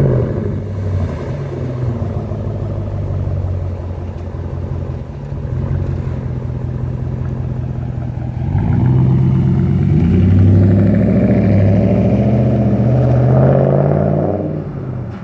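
Dodge Ram's 5.7-litre Hemi V8 with the muffler replaced by a straight Y-pipe (muffler delete), idling, then revved up about eight seconds in and held there for several seconds before dropping back near the end.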